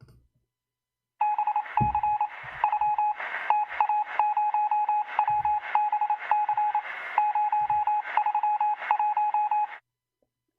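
Morse code: a single beeping tone keyed on and off in short and long stretches over radio static, stopping suddenly near the end.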